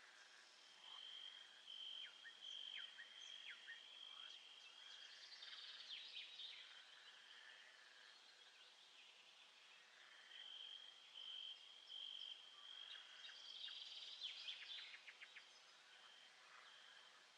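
Faint nature ambience of birds: many short high chirps and quick falling calls, with a high steady trilling note that breaks off and resumes. The calls come in two busy stretches, near the start and again past the middle, over a soft background hiss.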